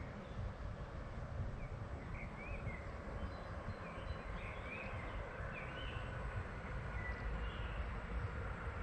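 Small birds chirping in short scattered calls over a steady low rumble, with a faint steady whine coming in about halfway.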